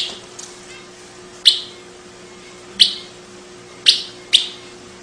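Long-tailed paradise whydah giving single short, sharp chirps, about one a second, over a faint steady hum.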